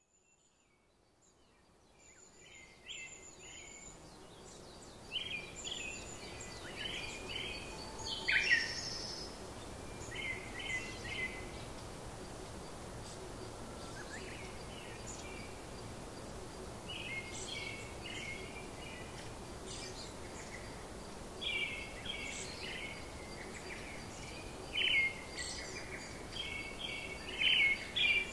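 Birds chirping in short runs of quick, high notes every few seconds over a steady low hiss, fading in over the first two seconds.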